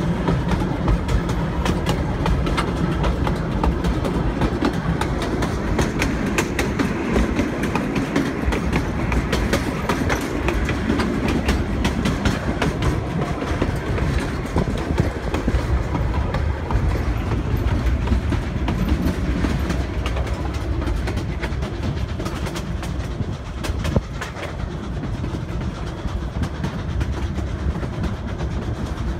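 Narrow-gauge passenger train rolling along, its wheels rumbling and clattering over the rail joints, heard from an open-air car.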